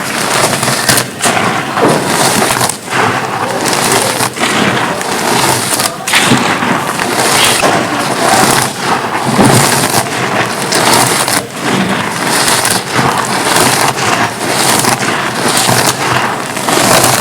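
Dry, gritty red dirt cones being crushed and crumbled, a dense continuous crunching and crackling with many small breaks.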